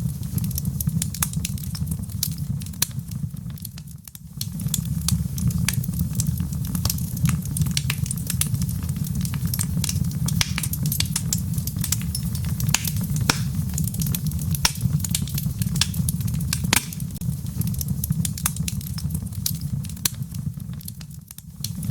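Wood fire crackling, with frequent sharp pops and snaps, over a steady low rumble of rain. The sound dips briefly about four seconds in and again near the end.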